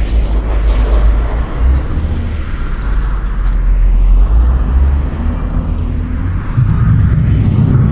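Loud, steady low rumble of a moving vehicle, heavier in the bass from about two-thirds of the way in.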